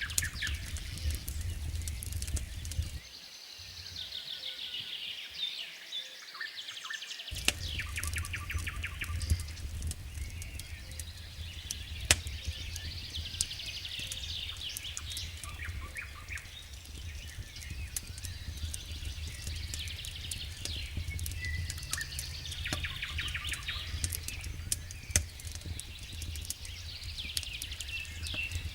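Wood fire crackling in a fireplace: scattered sharp pops and snaps over a hissing, crackling bed. A low rumble under the fire cuts out for about four seconds early on, then returns.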